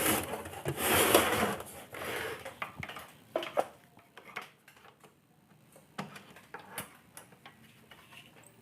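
Workbench handling sounds while a replacement electrolytic capacitor is fitted to a circuit board: a couple of seconds of rubbing and scraping, then scattered light clicks and taps of tools and parts that thin out.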